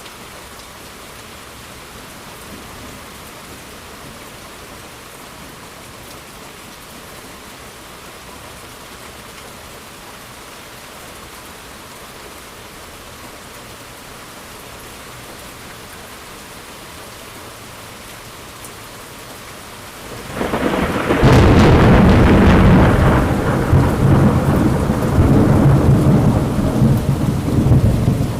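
Steady rainfall hissing evenly for about twenty seconds, then a loud thunderclap breaks in suddenly and rolls on as a long, deep rumble of thunder to the end.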